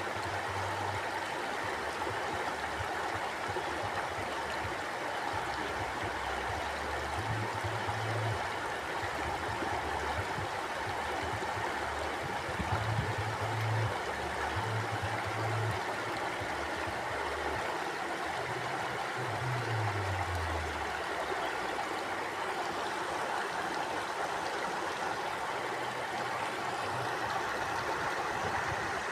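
Stream water flowing steadily, an even rushing sound, with soft low rumbles coming and going underneath.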